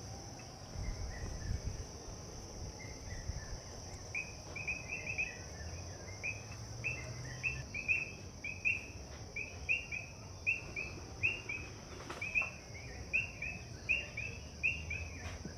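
Evening garden ambience: a steady high-pitched insect chorus, with a bird repeating short, falling chirps in quick groups of two or three from about four seconds in.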